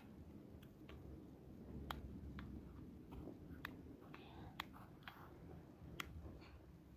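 Bonfire crackling: about a dozen sharp pops at irregular intervals over a low, steady rumble.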